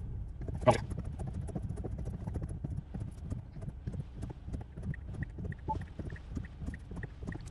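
Raindrops ticking irregularly on a Tesla's windshield and glass roof over a low cabin hum, with one louder knock about a second in. From about halfway through, the turn signal ticks at an even two to three clicks a second.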